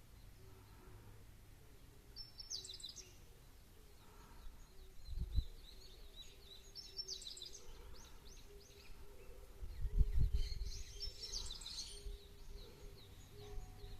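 Small birds calling in three short bursts of quick high chirps. A brief low thump comes about five seconds in and a louder low rumble about ten seconds in, over a faint steady hum.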